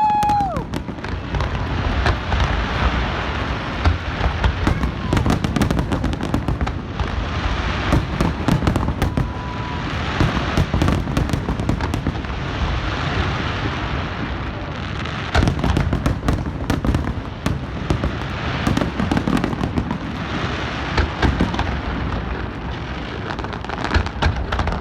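Aerial fireworks shells bursting in rapid, continuous succession: deep booms overlapping with dense crackling, with no break.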